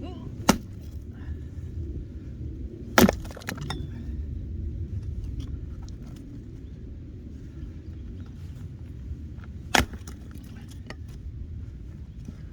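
Firewood knocking and clattering as it is handled: three sharp hard knocks, the loudest about three seconds in, with lighter clicks and knocks between them over a low steady rumble.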